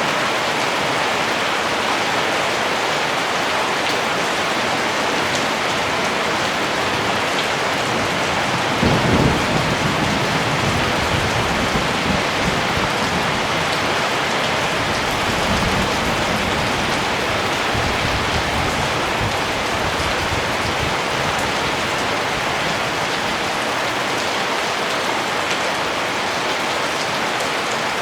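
Steady rain falling, an even hiss of drops. About a third of the way in, a low rolling rumble of thunder swells up and dies away over the next ten seconds or so.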